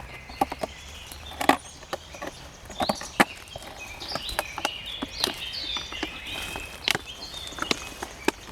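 Small birds chirping and calling over and over in short stepped notes, with irregular sharp clicks and taps throughout that are louder than the calls.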